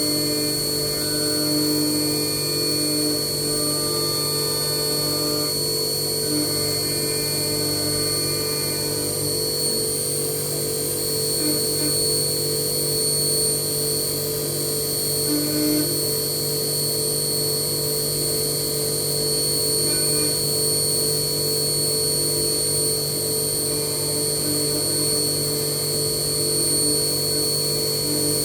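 HAAS CNC milling machine cutting a steel-free production weight disc, running steadily with a high-pitched whine and a constant hum beneath it.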